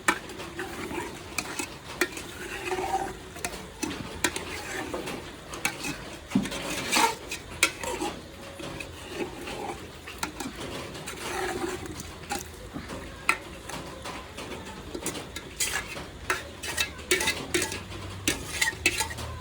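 A spoon stirring chicken curry in a cooking pot, with irregular clicks and scrapes against the pan over a low sizzle. The chicken is cooking in the water it has released.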